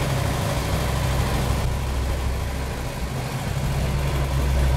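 Car engine running steadily, a low hum over a hiss of road noise, growing a little louder near the end.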